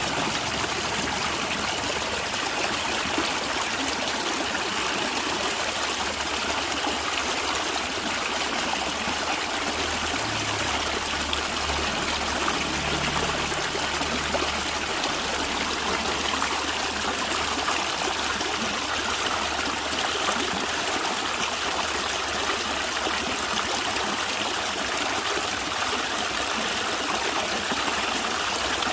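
A natural stream of running water, gurgling and trickling steadily with an even, unbroken rush.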